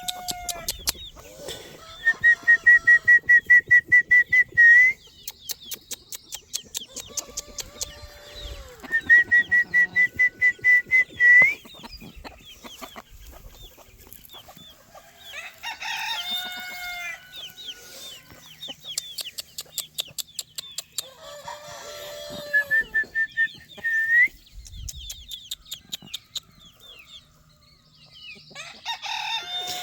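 Chickens clucking and crowing, with a high, rapid stuttering call repeated three times, each ending in an upward flick.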